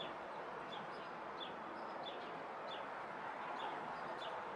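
Small bird chirping, short high chirps repeating about every half second, over a steady background hiss.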